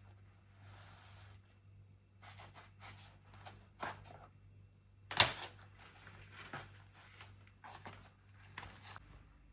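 Household objects being handled and set down during tidying: scattered light knocks and rustles, with one sharp knock about five seconds in.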